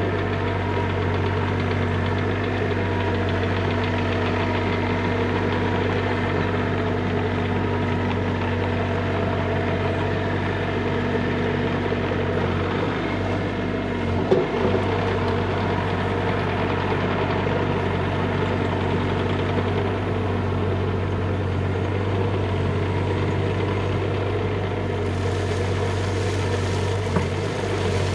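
Bobcat E35 mini excavator's diesel engine running steadily. A brief clunk sounds about halfway through, and another near the end.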